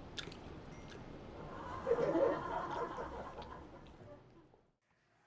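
Soft laughter, loudest about two seconds in, with a few clicks before it; it fades away near the end.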